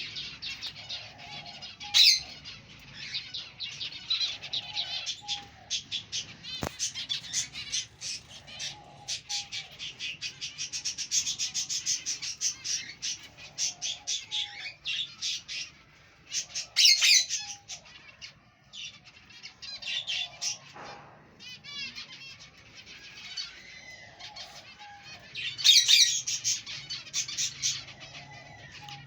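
A colony of aviary finches chirping and calling together: a dense, busy chatter of many short high chirps, with louder flurries now and then. A fainter, lower short call repeats about every two seconds beneath it.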